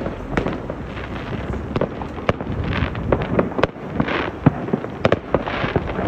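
Fireworks going off: an irregular string of sharp bangs and pops, with a few short bursts of hissing crackle.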